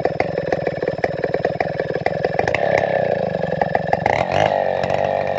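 Large two-stroke chainsaw (Stihl 070 / New West 707) idling with an even firing beat, then revving up from about two and a half seconds in and running at high speed from about four seconds in.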